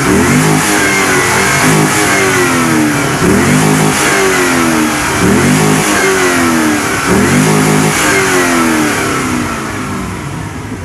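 A car engine revved hard again and again in quick blips for an exhaust loudness test, about six revs each rising sharply and falling back, with the revving easing off near the end.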